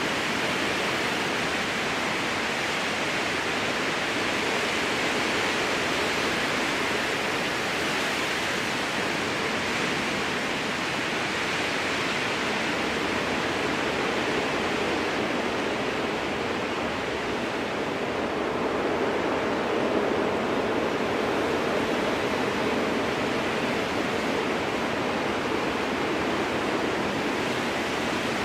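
Strong wind blowing through a spruce forest: a steady rushing that slowly swells and eases, deepening and growing a little louder about two-thirds of the way through.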